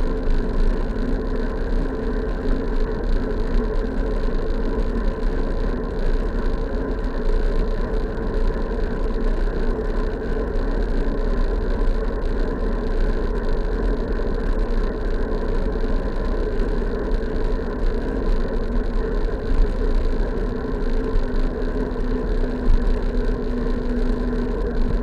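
Steady on-road riding noise from a bike in motion: wind and road rumble with a constant humming tone underneath.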